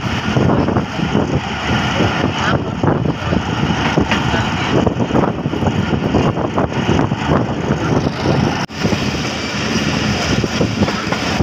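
Marvi passenger train running, heard from a carriage window: a loud, steady noise of the carriage rolling along the track, with many short knocks and rattles through it. About three-quarters of the way through, the sound drops out for an instant and comes back brighter.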